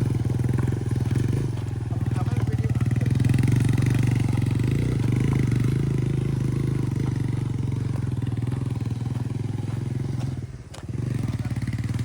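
Single-cylinder engine of a TVS Raider 125 motorcycle running steadily under load on a steep off-road climb, with a brief dip in level near the end.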